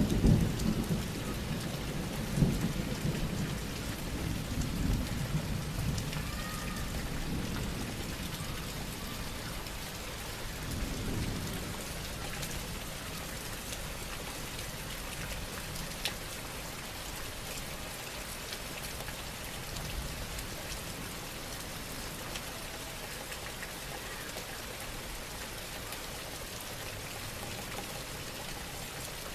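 Thunder rumbling low over roughly the first eight seconds, with a weaker rumble around eleven seconds, then dying away. Steady rain falls throughout.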